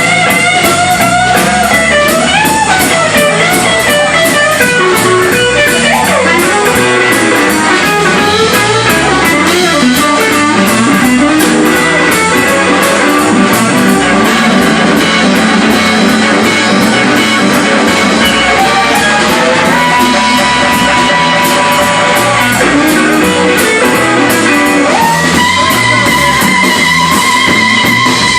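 Live blues-rock band playing loudly, an electric guitar lead bending notes over drums and bass. Near the end the lead settles into long held notes.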